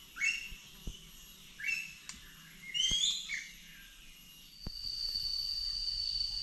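Wild birds calling in the forest: three bursts of short, rising chirps. About two thirds of the way through, a steady high-pitched drone begins and holds.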